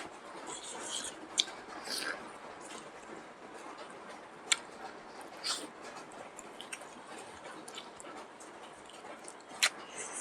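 Close-up eating sounds: chewing with scattered wet smacks and a few sharp clicks, about 1.5, 4.5 and 9.5 seconds in.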